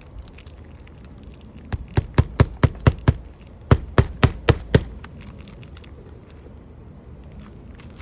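Hammer blows driving roofing nails through a new asphalt shingle: two quick runs of sharp strikes, about seven then five, at roughly four a second.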